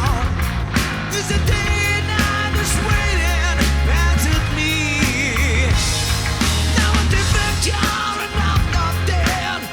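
Rock band playing a classic 80s–90s song: heavy bass and drums with a wavering lead melody over them.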